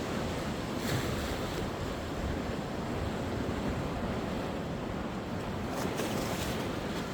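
Sea waves washing onto the shore in a steady surf, with brief hissing surges about a second in and again near six seconds.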